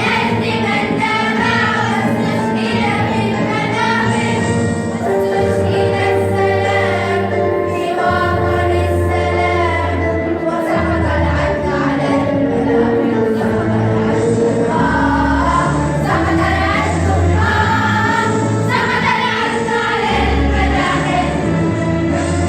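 A school choir of middle-school pupils singing an Arabic nasheed together, over low held notes of an instrumental backing.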